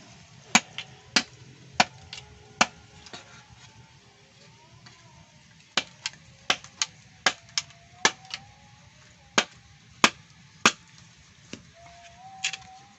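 Knife chopping, about eighteen sharp strokes in irregular runs with short pauses between them, as quail meat is cut up.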